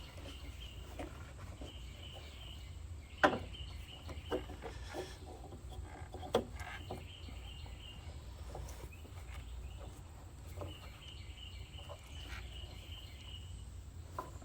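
Light clicks and knocks of hands working a headlight bulb and its wiring in a car's engine bay, the sharpest about three seconds in, over a steady low hum and faint, repeated high chirping.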